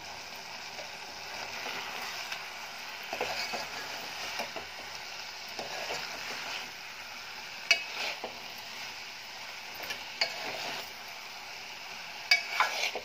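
Prawn masala with tomatoes and spices frying in a metal pot, sizzling steadily as a metal spoon stirs it. The spoon scrapes and clinks against the pot a few times, most sharply near the end.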